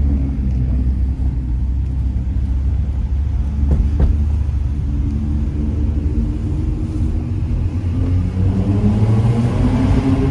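Straight-piped Mazda 3 Skyactiv 2.0 four-cylinder engine running at low revs with a deep, steady exhaust note, then rising in pitch as it accelerates near the end.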